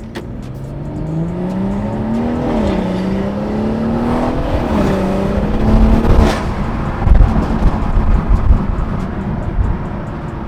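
BMW B58 turbocharged inline-six with its mid muffler removed, accelerating hard: the engine note climbs, drops at an upshift about two and a half seconds in, climbs again, and drops at a second shift nearly five seconds in. About six seconds in the throttle closes, and the note gives way to an uneven low rumble, loudest around seven to eight and a half seconds.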